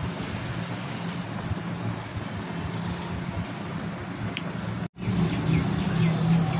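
Steady background rumble with a low hum, broken by a split-second gap of silence about five seconds in.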